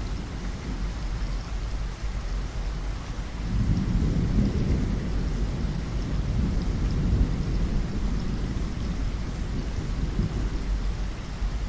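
Steady rain hissing, with a low rumble of thunder rolling in about three and a half seconds in and lasting several seconds before easing.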